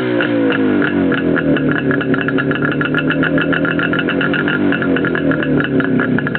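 Izh Jupiter 5 two-stroke twin running on open exhaust pipes with no silencers, revving: the pitch falls away early, holds fairly steady through the middle, then climbs again near the end, with a fast rattling beat of exhaust pulses.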